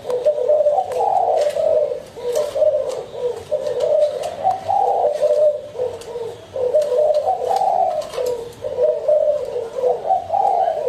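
Spotted doves cooing: repeated low coo phrases following one another almost without pause.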